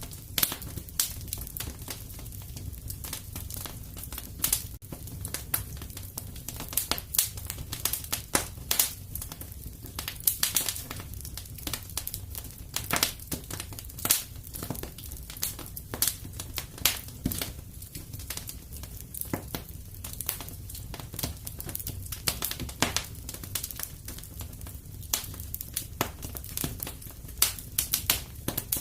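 Wood fire burning in a fireplace: dense, irregular crackles and pops, several a second, over a steady low rumble of the flames.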